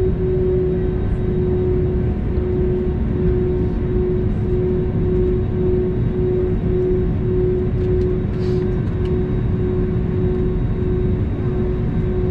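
Airbus A320neo cabin noise: a steady low engine and airflow rumble with a steady hum that pulses slightly, about twice a second.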